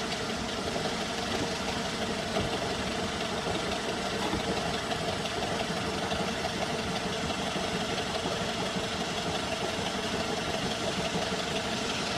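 Second-generation Ford Focus engine idling steadily, with a knock that the owner places in the clutch area.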